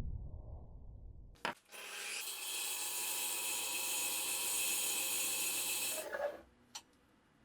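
A small power tool runs steadily for about four seconds, with a high hissing whir, then stops abruptly. Before it starts there is a low rumble and a sharp click.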